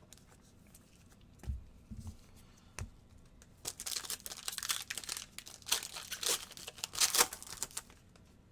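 A few soft thumps, then a trading-card pack wrapper being torn open and crinkled for about four seconds, with sharp crackles throughout.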